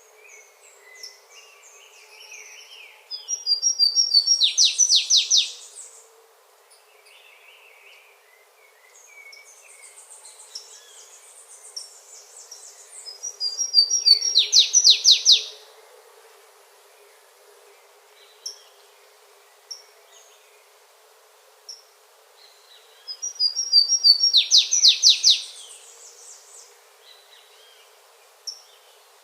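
A songbird singing the same short, high song three times, about ten seconds apart: each phrase opens with a few stepped notes and ends in a loud run of rapid notes. Fainter chirps from other birds or insects sound between the phrases.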